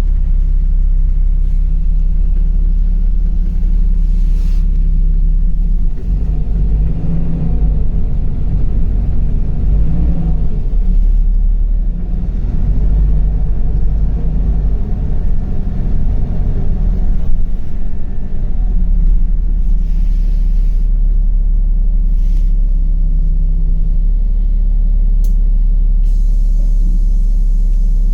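LiAZ 5292.65 city bus heard from inside during a ride: steady low engine and road rumble, rougher and louder through the middle stretch, as the bus drives under power.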